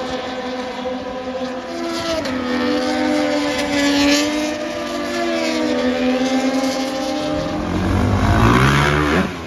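Racing motorcycle engines running at high revs on the circuit, their pitch rising and falling. Near the end one bike passes close, its pitch dropping sharply as it goes by.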